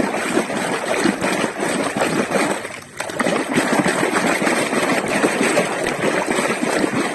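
Water running and splashing as a muddy toy car is washed, with a short break about three seconds in.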